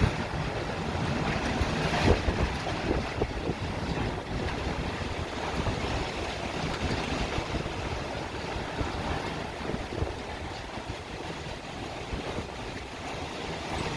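Strong storm wind blowing in gusts and buffeting the microphone as a low rumble, with a strong gust about two seconds in.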